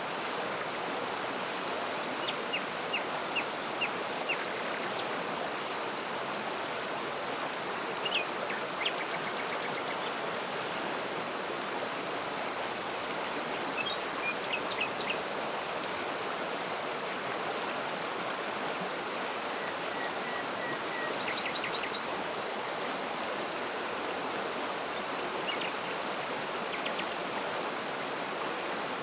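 Waterfall and stream water rushing steadily, with small birds chirping in short runs now and then over it, about two seconds in and again several times later.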